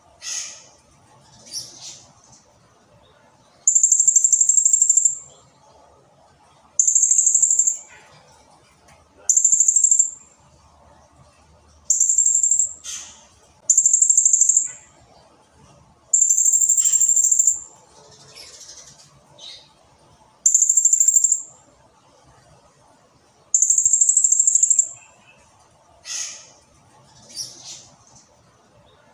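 Blue-crowned hanging parrot (serindit) calling: eight high, shrill trilled phrases of about a second or so each, repeated every two to three seconds, with softer short chirps in between.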